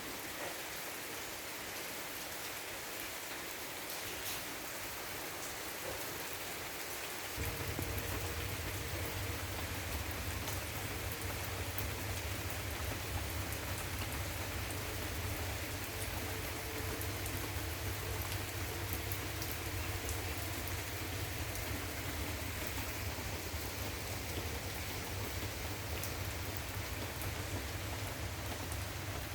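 Rain falling steadily, an even hiss of drops on surfaces. About seven seconds in, a steady low hum joins it and carries on.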